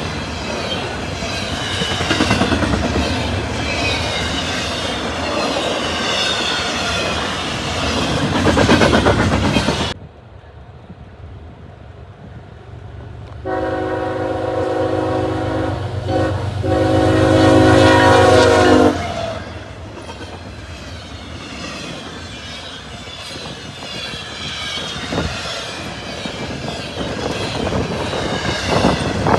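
CSX freight train rolling past, with steel wheels clattering over the rail joints and squealing. Near the middle a diesel locomotive's air horn sounds loudly for about five seconds with one short break, followed by the low rumble of an approaching train that grows louder near the end.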